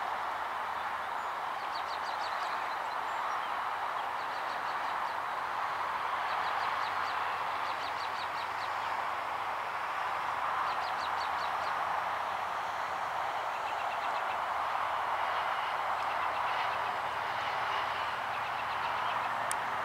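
Steady outdoor background noise, with a small bird giving short, rapid chattering trills several times, mostly in the first half.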